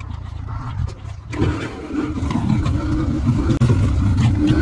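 Dirt bike engine running, getting louder about a second and a half in as it picks up revs.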